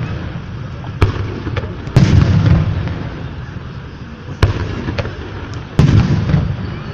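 Aerial fireworks going off: four sharp booms. The second and fourth are the loudest and are each trailed by a low rolling rumble, with a few fainter pops in between.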